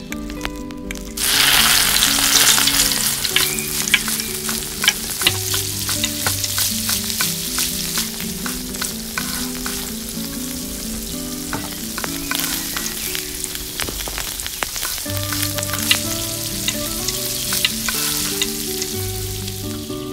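Beetroot cutlets frying in hot oil in a miniature pan: a loud sizzle starts suddenly about a second in, then goes on steadily with sharp crackling pops. Soft background music with a simple melody plays underneath.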